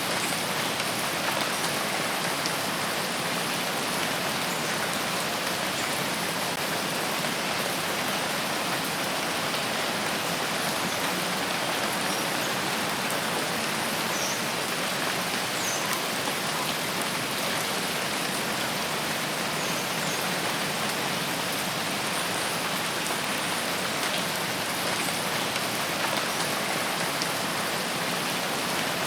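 Steady rainfall in a forest: an even, unbroken hiss of rain.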